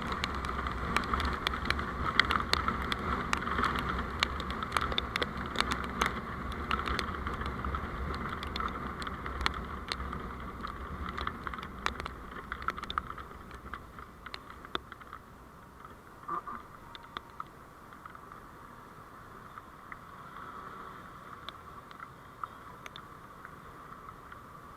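Road and wind noise of a moving vehicle, heard from its on-board driving recorder, with many sharp clicks and rattles. The noise dies down markedly about halfway through.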